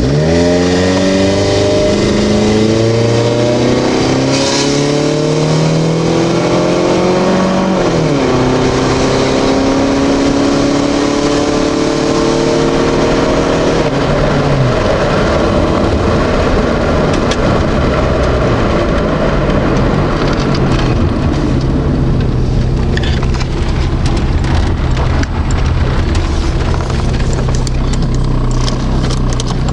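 1998 Pontiac Firebird's engine running cold after a winter cold start. The revs climb slowly for several seconds, drop sharply about eight seconds in and hold, then fall to a steady idle about fourteen seconds in. Right at the end the revs start rising again.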